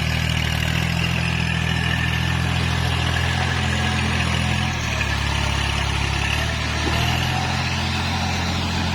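Kubota tractor's diesel engine running steadily, its pitch shifting slightly about five and seven seconds in.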